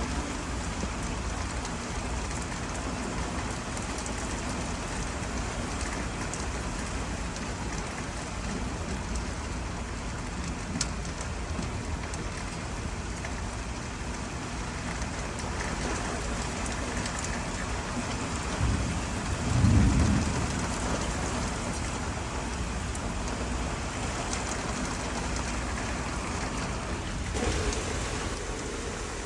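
Steady rain falling, with one deep rumble of thunder about two-thirds of the way through.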